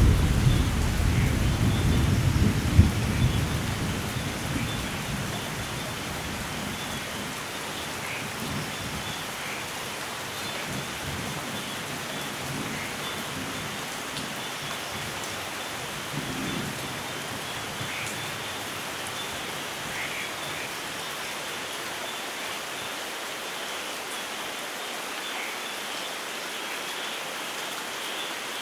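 Heavy rain falling steadily in a rainforest thunderstorm, with a low roll of thunder at the start that fades away over the first few seconds. Faint short chirps come through the rain now and then.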